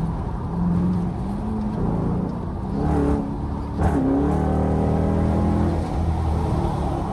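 Straight-piped Dodge Durango's exhaust while driving, the engine note shifting up and down in pitch as the revs change, with a brief sharp click about four seconds in.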